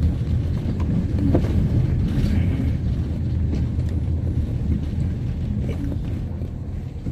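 Car driving on an unpaved murram road, heard from inside: a steady low rumble of tyres and engine with a few light knocks and rattles.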